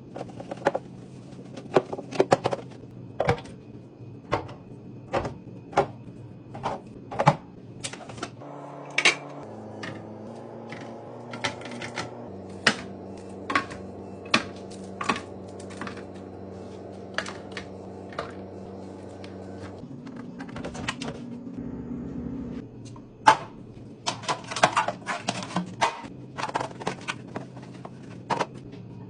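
Irregular clicks and knocks of hard objects being handled and set down, with a steady hum in the middle stretch, from about a third of the way in until a little past two thirds through.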